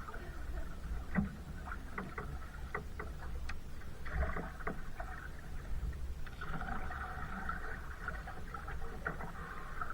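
Kayak being paddled: the paddle blades dip and splash through the water in patches, with scattered small knocks and drips over a steady low rumble.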